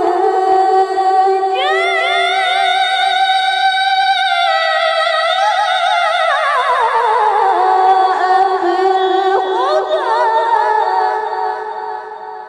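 A woman's voice in melodic Quran recitation (tilawah), holding one long ornamented phrase. It leaps up to a high held note a couple of seconds in, slides down in pitch around the middle, and fades away near the end.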